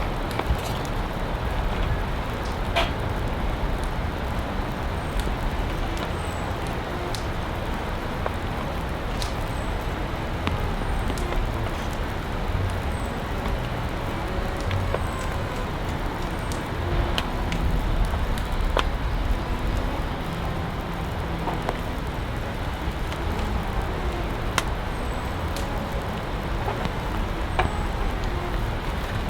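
Steady heavy rain, with scattered sharp ticks of single drops striking.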